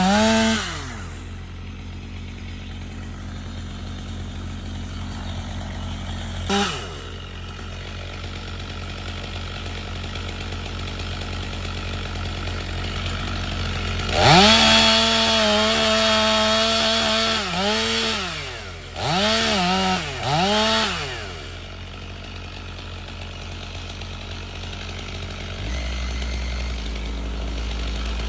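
Chainsaw revving up and down in bursts: a brief blip, then a rev held for about three seconds and three short revs in quick succession about two-thirds of the way through. A low steady rumble runs between the revs.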